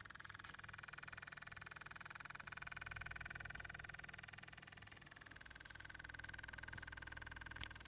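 Faint squeaking whine with a fine rapid flutter in it, held for several seconds and dropping a little in pitch about five seconds in, with a brief click near the end. It is the abnormal noise of a sagged, deformed damper.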